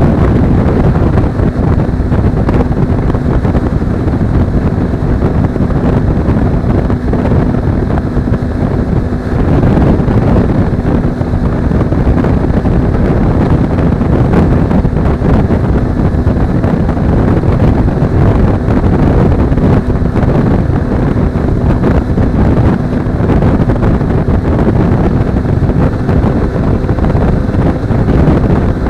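Steady, loud wind rushing over an action camera's microphone on a Suzuki V-Strom 250 motorcycle at road speed, with the bike's engine only faintly audible beneath it.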